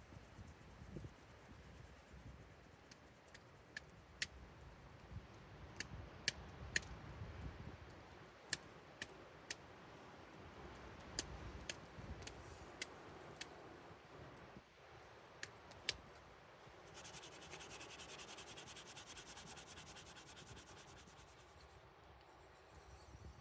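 Campfire crackling: scattered sharp pops, a dozen or so, spread through the middle. Near the end comes a fast, steady rasping for about four seconds.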